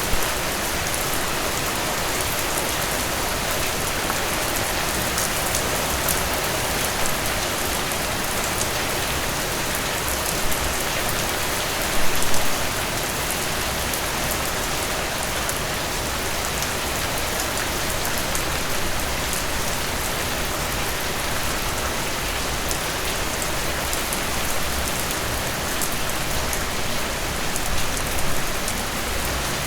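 Heavy rain falling steadily in a dense, even hiss, with a few brief louder spatters, the strongest about twelve seconds in.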